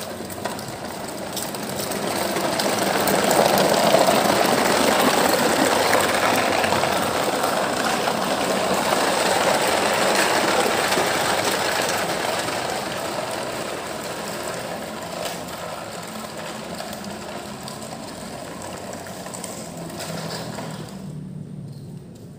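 Toy trucks running along the ground with a steady mechanical whirr and rolling noise. It swells over the first few seconds, then slowly fades and drops away near the end.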